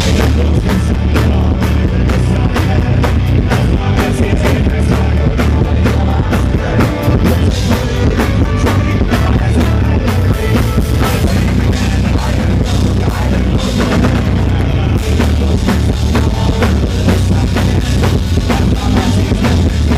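Folk-rock band playing live at full volume, the drum kit keeping a fast, steady beat over a heavy bass.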